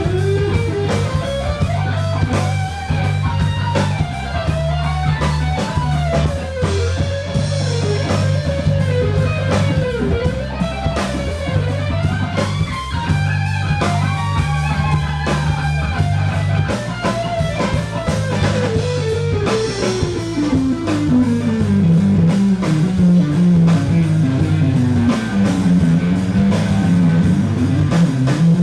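Live rock band playing an instrumental passage: a lead guitar line with bent, gliding notes that works its way down in pitch near the end, over steady bass notes and a drum kit.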